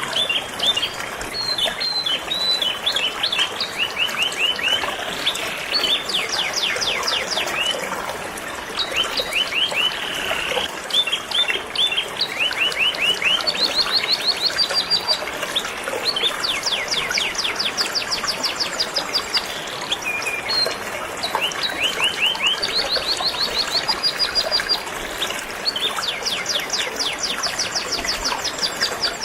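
Canary singing in long runs of rapid repeated notes, one run after another with short breaks, over a steady rush of flowing river water.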